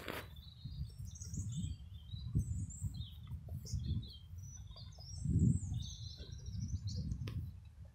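Small birds chirping and twittering, with irregular low rumbling underneath that swells about five seconds in.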